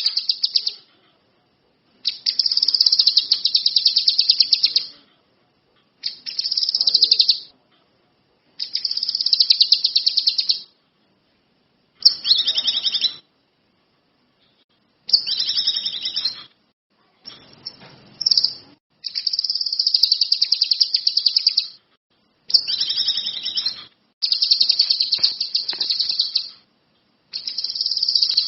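A kinoi songbird singing in about a dozen bursts of rapid, high-pitched trilling, each one to three seconds long, separated by short silent gaps.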